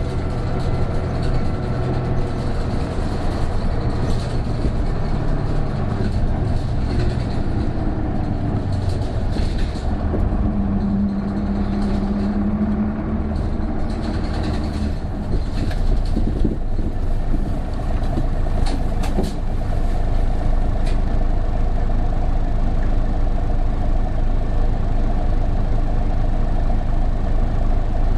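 Interior running sound of an Isuzu Erga city bus (PJ-KV234L1) with its turbo diesel engine pulling while driving. The engine drone is steady, with a short steady whine showing up about ten seconds in, and the drone rises a little and evens out in the second half.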